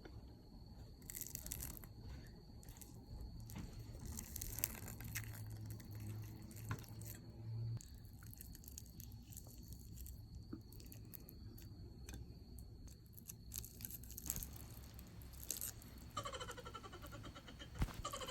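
Eating sounds: chopsticks clicking and picking at a grilled fish, with small tearing and chewing noises scattered unevenly.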